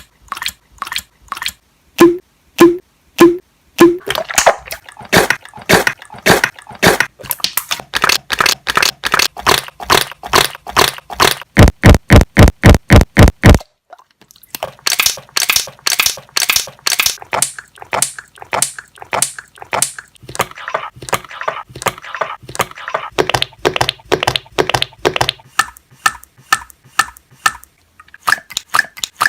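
Slime being squeezed and pressed by hand, making quick wet clicks and pops several times a second, with a stretch of heavier, deeper pops about halfway through.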